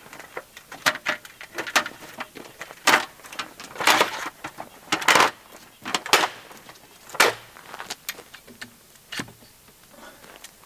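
Irregular knocks and clatter of hard objects being handled, about a dozen sharp strikes over some eight seconds, thinning out near the end.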